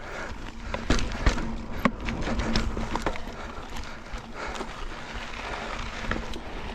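Mountain bike rolling over slickrock: tyre noise with scattered sharp knocks and rattles from the bike as it goes over the rock.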